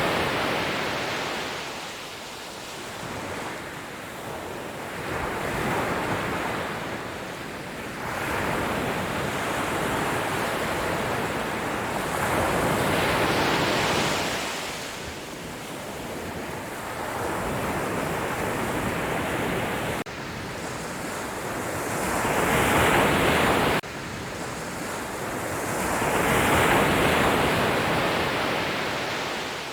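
Sea waves breaking on the shore, each surge swelling and washing back every few seconds. The level jumps abruptly twice, about two-thirds of the way through.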